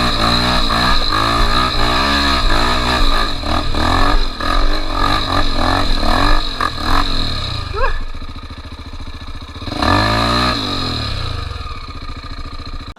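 Off-road motorcycle engine revving up and down over and over as the throttle is worked. About eight seconds in it drops to a steadier, quieter running, then revs up again briefly.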